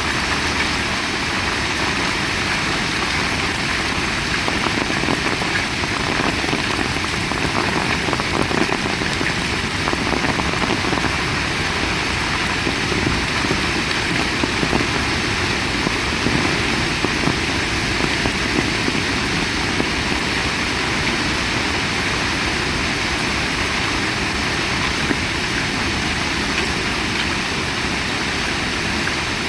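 Heavy rain pouring down, a dense, steady hiss without a break.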